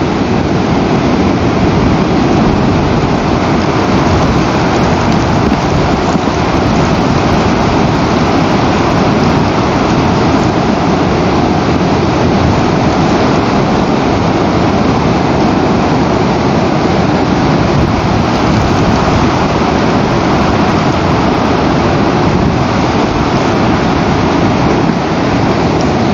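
Steady, loud rushing noise of rough weather on the nest camera's outdoor microphone, with no separate calls or knocks standing out.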